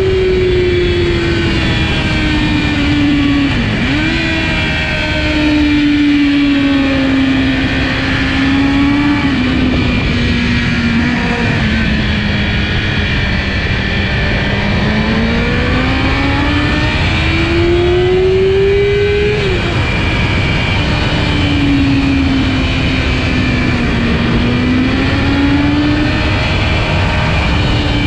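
Kawasaki ZX-10R's inline-four engine at race pace, its pitch climbing and falling as the bike accelerates and slows for corners. The pitch drops abruptly where it shifts gear.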